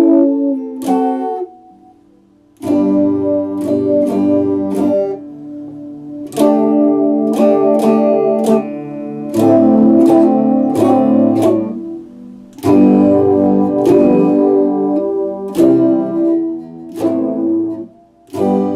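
Epiphone Les Paul Special II electric guitar playing strummed chords that ring out, with a brief pause about two seconds in.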